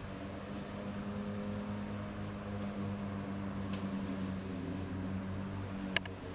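A motor running steadily with an even hum, with a sharp click about four seconds in and a louder one near the end.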